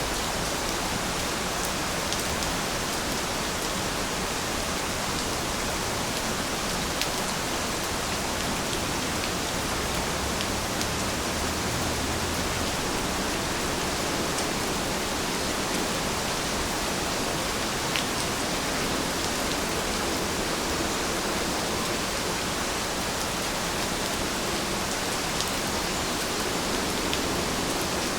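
Steady rain falling, an even hiss with a few sharp ticks of single drops landing close.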